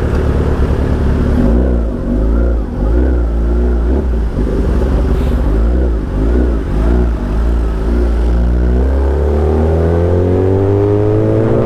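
Motorcycle engine in stop-and-go traffic, its pitch rising and falling with short throttle changes, then climbing steadily as it accelerates from about nine seconds in.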